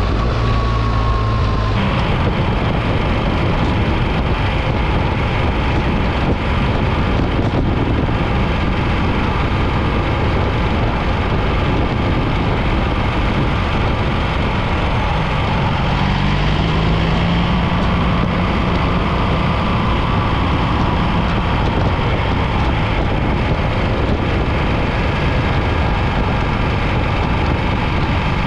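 Wind rushing over the microphone of a BMW R 1300 GS boxer-twin motorcycle at road speed, with the engine's drone underneath. The wind noise swells about two seconds in, and the engine pitch rises slightly around the middle.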